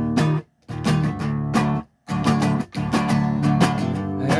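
Acoustic guitar strumming chords in a steady rhythm, cut dead twice by sudden stops, about half a second in and again about two seconds in.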